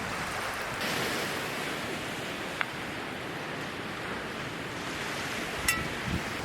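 Ocean waves washing on the shore, a steady surf wash that swells about a second in. Two short sharp clicks sound over it, the second, louder one near the end.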